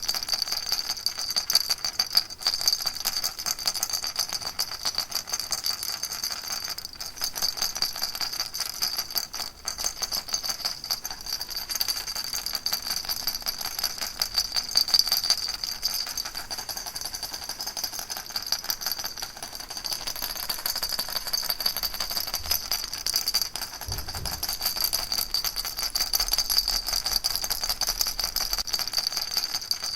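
Baby rattle shaken steadily, a dense even rattling that goes on without a break.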